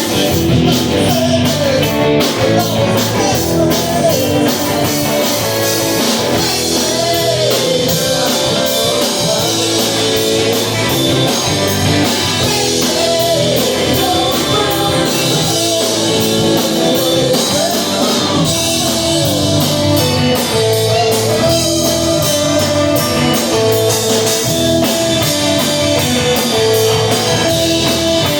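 Live rock band playing a song, with electric guitar and drum kit.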